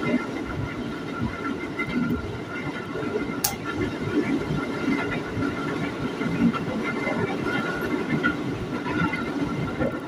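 Electric commuter train running at speed, heard from inside the carriage: a steady rumble of wheels on rail with a faint steady high tone above it. A single sharp click comes about three and a half seconds in.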